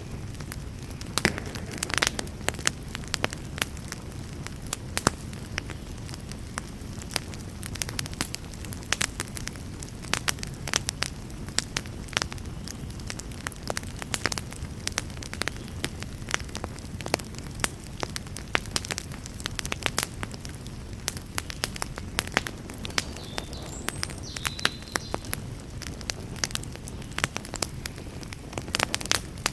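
Wood campfire crackling, with irregular sharp pops and snaps from the burning logs over a steady low rush in the background.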